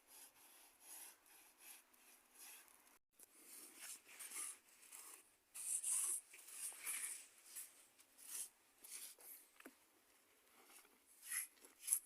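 Irregular scraping and rubbing strokes, about one or two a second, from a hand tool worked over a rough cement surface. A sharper stroke comes near the end.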